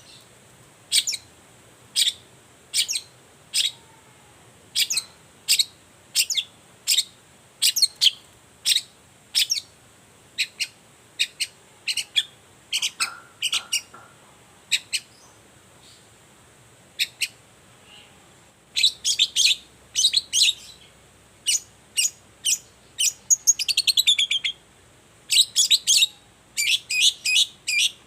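Long-tailed shrike (cendet) calling: a long series of short, sharp high "toet" notes about once a second, breaking in the second half into quicker clusters of notes and a fast trill.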